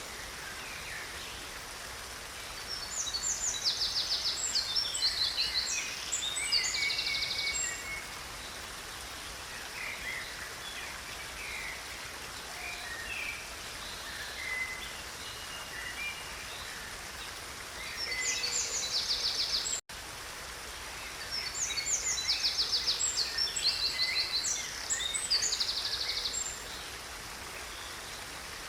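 Creek water running steadily while a songbird sings phrases of fast, high trills and chirps, three times, with quieter calls between. The sound cuts out for an instant about twenty seconds in.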